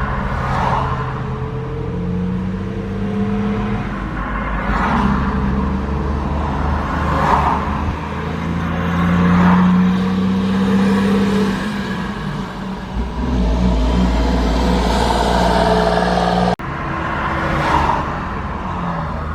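Truck engine running, its pitch rising and falling as it revs, with a sudden break in the sound about three-quarters of the way through.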